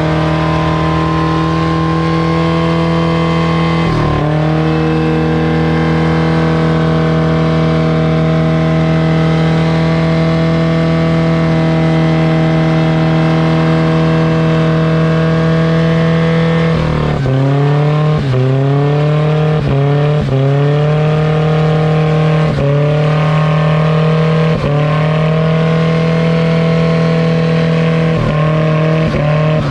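Truck engine held at high, steady revs, then from just past halfway its pitch drops sharply and climbs back again and again, every second or two.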